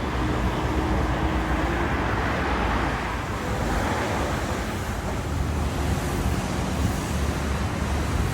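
A vehicle on the move: steady engine and tyre noise mixed with rushing wind.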